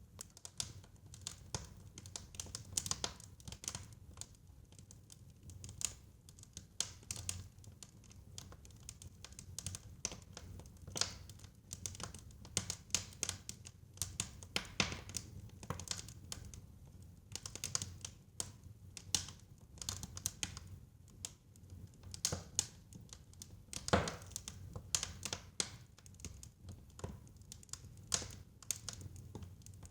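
Fire crackling in a fireplace: irregular snaps and pops over a low steady rumble, with one louder pop about two-thirds of the way through.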